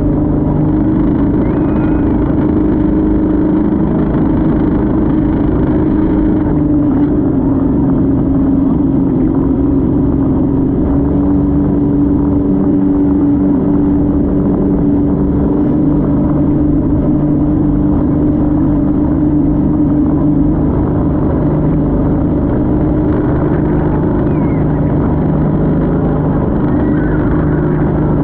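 Motorboat engine running steadily under way, a loud continuous drone with a constant pitch.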